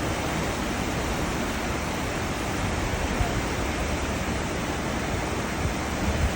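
Cruise ship's wake churning and rushing as a steady, even wash of water noise with a low rumble underneath.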